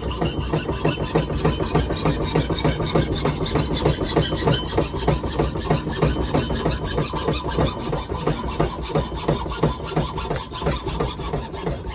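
Hand saw cutting into a pinewood block in quick, steady back-and-forth strokes, a rasping wood-on-blade sound.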